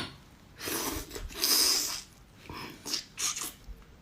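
Close-up eating sounds of sea cucumber being slurped and chewed: one long noisy slurp from about half a second to two seconds in, then a few shorter slurps and chews.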